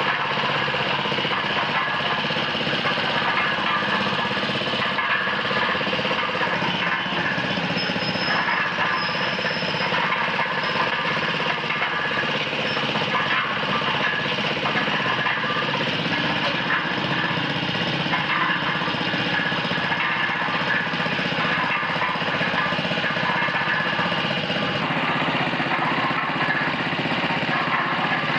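Small petrol engine of a compact two-wheeled concrete mixer running steadily at a constant speed, with a fast, even pulsing.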